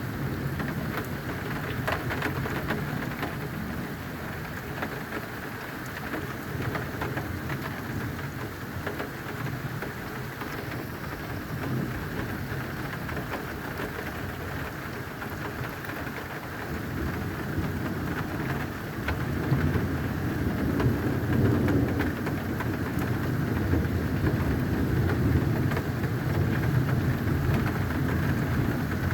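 Steady rain with scattered drop ticks, and thunder rumbling low. The rumble builds past the middle and stays loud to the end.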